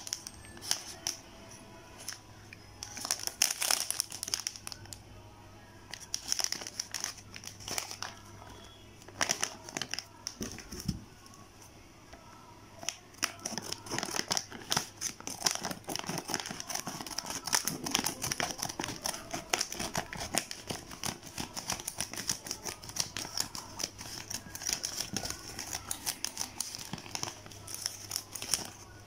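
Plastic food packaging crinkling and rustling as it is handled, in irregular bursts that become nearly continuous about halfway through.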